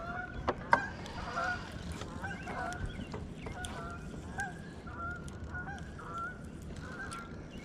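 Birds calling with many short, repeated calls, with two sharp clicks under a second in.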